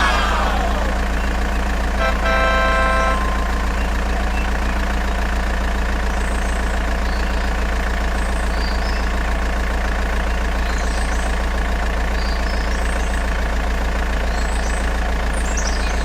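A steady, low engine-like drone, with a brief horn-like tone about two seconds in and faint high chirps later on.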